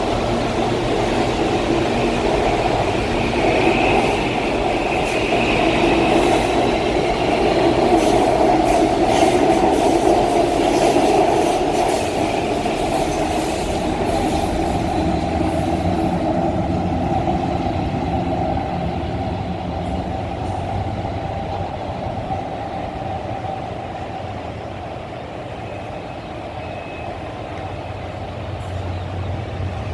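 Electric commuter train running through the station: a steady motor whine with wheels clicking over rail joints. It is loudest about a third of the way in, then slowly fades.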